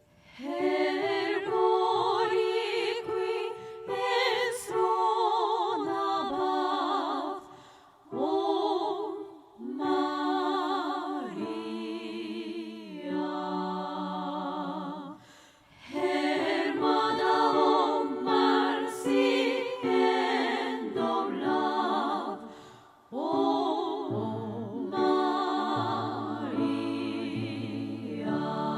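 Women's three-part chorus, all parts sung by one woman and layered, singing slow sustained phrases in close harmony with short breaks between phrases.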